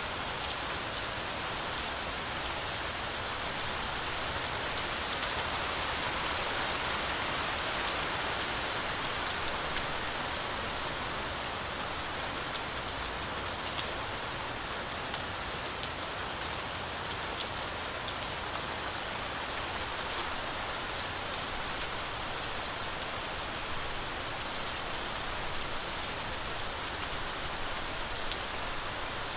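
Heavy rain falling steadily through forest trees: a dense, even hiss with scattered drops ticking, swelling a little a few seconds in.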